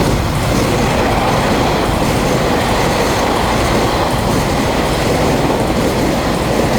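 Taiwan Railways EMU3000 express train passing through the station without stopping: a loud, steady rush of wheels on the rails.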